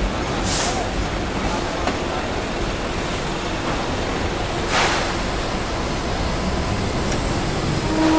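Hong Kong double-deck tram running along the street: a steady rumble and hiss, with two brief sharp hisses about half a second in and again near five seconds in.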